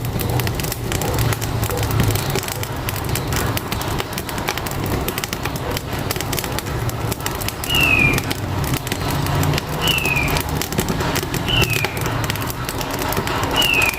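Firewood crackling in a wood-burning stove, with many sharp snaps over a steady low engine rumble from a truck. From about eight seconds in, a bird gives four short falling whistles.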